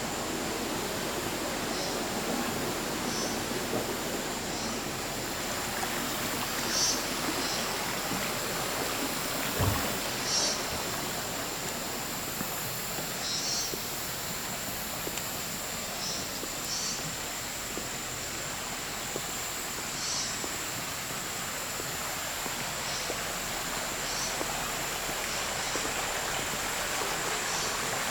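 Shallow stream water running steadily, with short high chirps now and then and a single low thump about ten seconds in.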